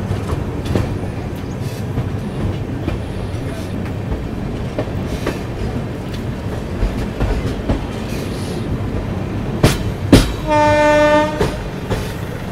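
Passenger train running, heard from an open coach door: a steady rumble of wheels on rails with scattered clicks. About ten seconds in come two sharp, loud knocks, then a single steady horn blast lasting about a second.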